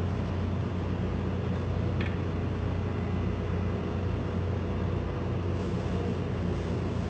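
Hyundai Tucson four-cylinder petrol engine idling steadily, with a faint short tick about two seconds in.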